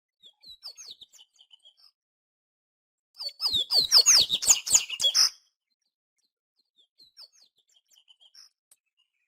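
Papa-capim (Sporophila seedeater) singing: soft scattered high chirps, then about three seconds in a loud, fast twittering phrase of quick sliding notes lasting about two seconds, followed by a few faint chirps.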